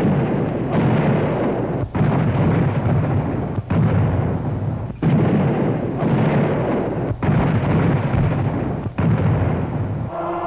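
Sound effect of artillery fire: about six long, rumbling blasts, one after another, each breaking off abruptly before the next begins.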